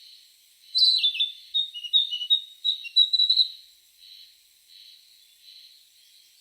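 A songbird singing: a quick run of high chirps and short falling whistles starting about a second in and lasting some two and a half seconds, followed by fainter, softer notes.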